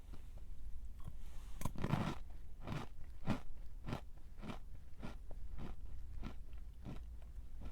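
Close-up chewing of a crunchy snack: a crunching bite about two seconds in, then a steady run of crisp crunches a little under two per second.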